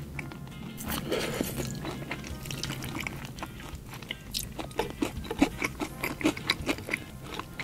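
Close-up biting and chewing of a silver-coated fried chicken drumstick, with many short, sharp crunches that come thickest in the second half, over soft background music.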